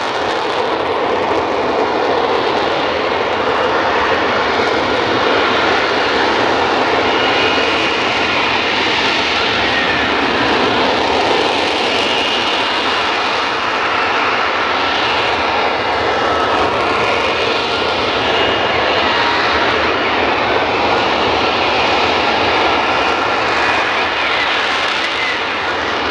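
F-35B Lightning jet engine running loud and steady in slow, lift-fan-borne flight, with a faint high whine above the jet noise.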